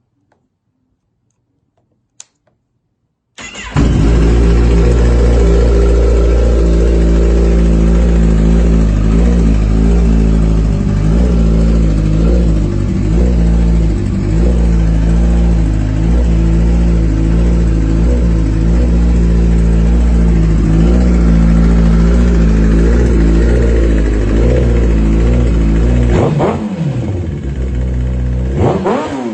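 2013/2014 Kawasaki Ninja ZX-10R's inline-four engine through a Two Brothers aftermarket exhaust: after a faint click it starts suddenly about three and a half seconds in and idles loudly and steadily. Near the end it is revved twice, the pitch rising and falling each time.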